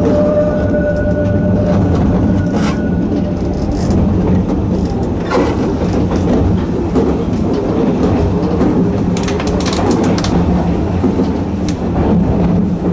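Narrow-gauge Hokusei Line electric train running along the track, with the drone of its nose-suspended traction motors and wheels clicking over rail joints. A steady whine stops about two seconds in.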